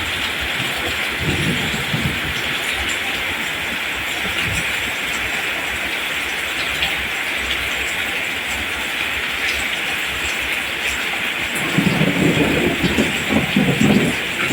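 Steady rain falling, an even dense hiss. Near the end a low, uneven rumbling swells for about two seconds.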